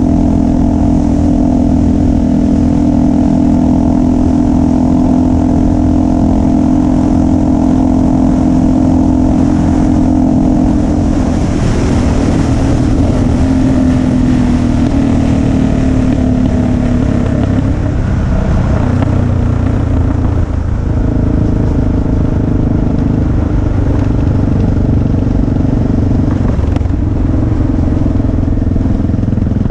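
Motorcycle engine running on the move. The engine note holds steady for about ten seconds, then dips and shifts as the speed changes.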